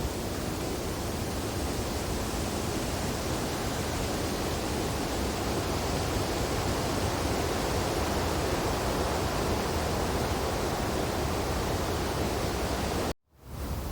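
Steady wind rushing through tree branches in a snowfall, an even noise without gusts or tones. About 13 seconds in it cuts out suddenly and fades back in.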